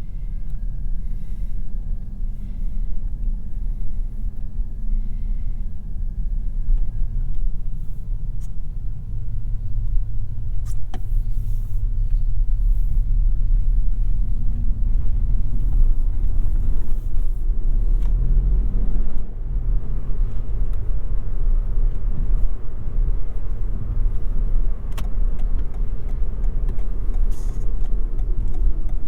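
Toyota Yaris 1.5 Hybrid driving on city streets, giving a steady low rumble of road and tyre noise with a few light clicks.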